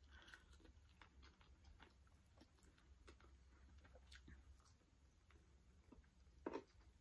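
Faint close-up eating sounds: soft chewing and small mouth clicks, with one louder short bite about six and a half seconds in.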